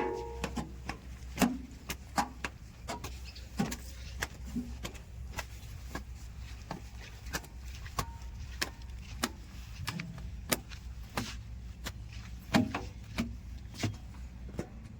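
An engine running steadily with a low hum, with many irregular sharp knocks and clanks over it, typical of machinery working soil.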